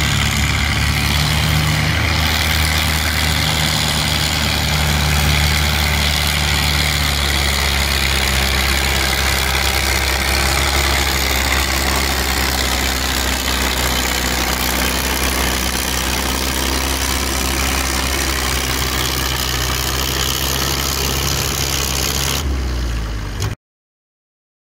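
Tractor engine running steadily at a low idle-like speed, its note shifting slightly now and then, until the sound cuts off abruptly near the end.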